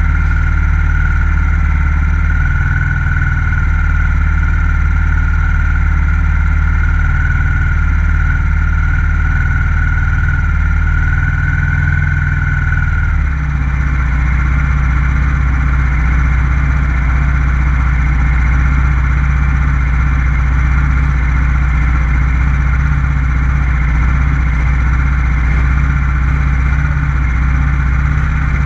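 Small F4 racing motorcycle with a stock FXR150 engine running loud and steady at speed. About 13 seconds in, a high whine drops out and the low engine note changes.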